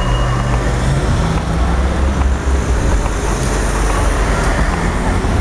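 Traffic at a tram and bus stop: a large vehicle running with a steady low rumble over road noise, and a thin high tone that stops about half a second in.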